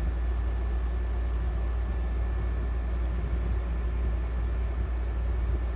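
Steady low hum with a faint even hiss, and a faint high, steady pulsing tone above it.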